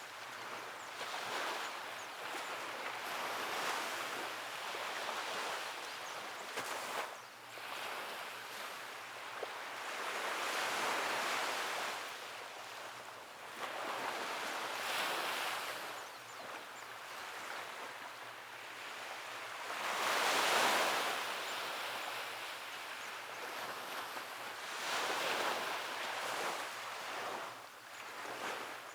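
Ocean waves washing onto a beach, one after another. Each wash swells and fades over a few seconds, and the biggest comes about two thirds of the way through.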